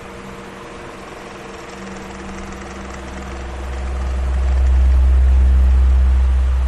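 Electric fan running steadily: a motor hum under rushing air, with a low rumble that swells to its loudest from about four seconds in.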